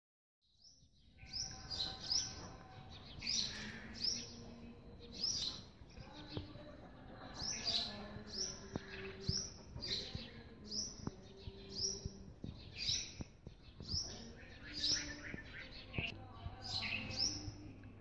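Small birds chirping over and over: short, high chirps that fall in pitch, about one or two a second.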